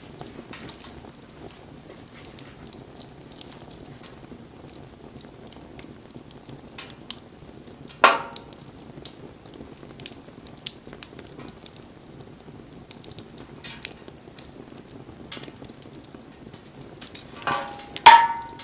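Wood fire crackling with scattered sharp pops over a steady low hiss. Two louder pops stand out, one about 8 seconds in and one near the end, each with a brief ringing tone.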